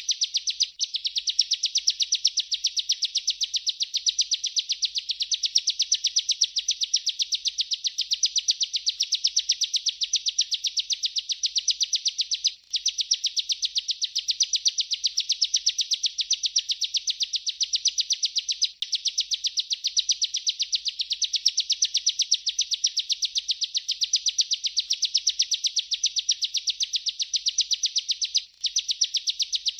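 Ciblek (prinia) singing its continuous rolling song: a fast, unbroken stream of high, rapidly repeated notes with only a few split-second breaks.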